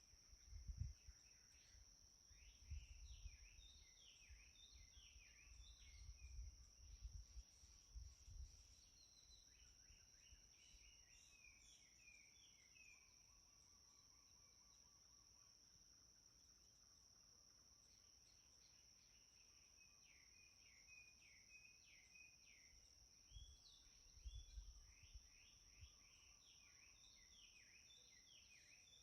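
Faint birdsong, quick high chirps in runs, over a steady high-pitched insect drone, probably crickets. The chirping pauses for several seconds midway, and soft low rumbles come and go in the first third and again near the end.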